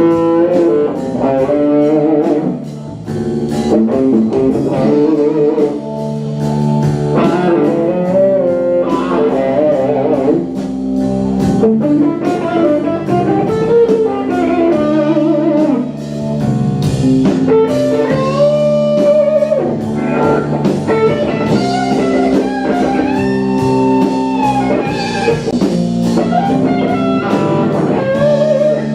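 Live band playing an instrumental break: a guitar lead with bending, wavering notes over sustained guitar chords and drums.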